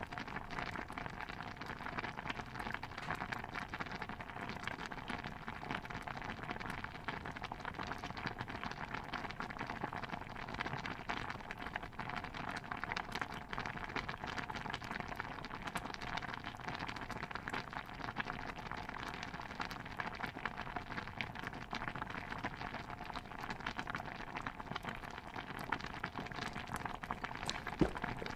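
A pot of stew bubbling steadily, a dense even patter of small pops and crackles.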